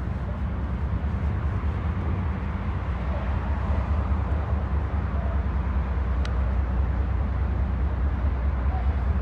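Diesel locomotive of a double-stack freight train running with a steady low rumble.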